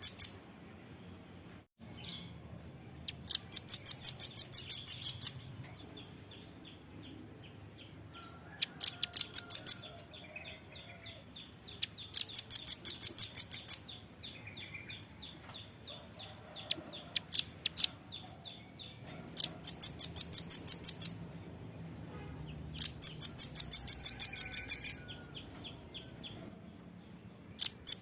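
Velvet-fronted nuthatch (rambatan paruh merah) calling in loud bursts of rapid, sharp repeated notes, each burst about one to two seconds long, coming every few seconds, with fainter chips between the bursts.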